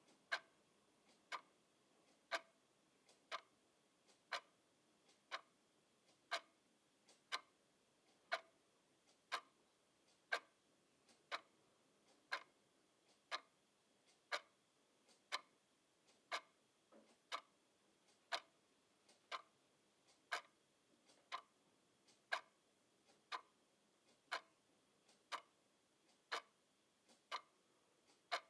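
Clock ticking steadily at about one tick a second, each tick a short sharp click, with a fainter click sometimes heard just before the main one.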